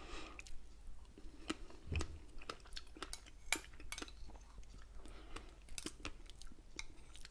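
Close-miked chewing of fresh strawberries with cream: irregular small wet clicks and smacks from the mouth.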